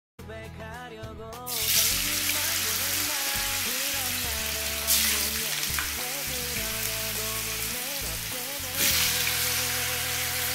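Cubes of tofu deep-frying in hot oil in a pan: a steady crackling sizzle that starts about a second and a half in and swells briefly twice.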